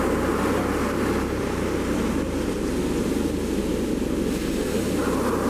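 Wind buffeting the microphone over the steady wash of ocean surf, a loud low rumble with no distinct events.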